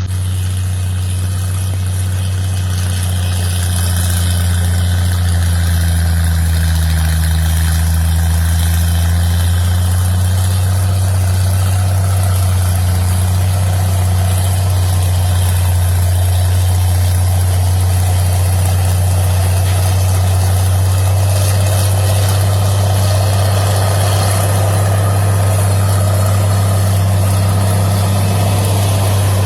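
Heavy diesel engine running steadily with a low, even tone; it grows a little louder about five seconds in.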